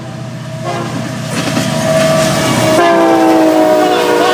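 Freight train's diesel locomotive horn blowing a long multi-note chord over the engine rumble as the train comes closer and louder; about three seconds in the chord drops slightly in pitch as the lead locomotive passes.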